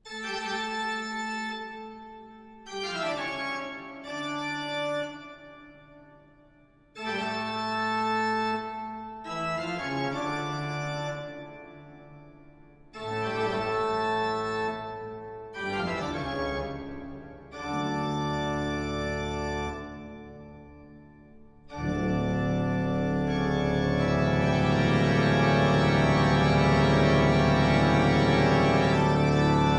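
Organ music, likely the video's outro. It plays short phrases broken by pauses, then a long, full chord that swells and holds from about 22 seconds in.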